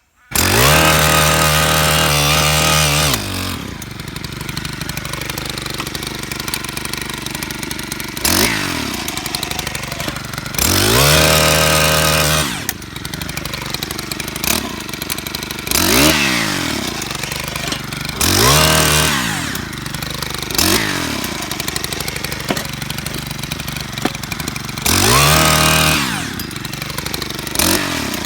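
Small petrol engine of a post-hole auger running, revving up to steady high speed for a few seconds at a time and dropping back, with its pitch rising and falling again and again as the holes are bored.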